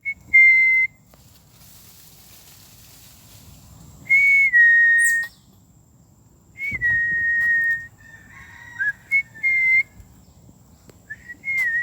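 Clear whistled notes near one high pitch. Each is held steady for about half a second to a second, often stepping down a little in pitch, and they come in a handful of short phrases separated by pauses of one to three seconds.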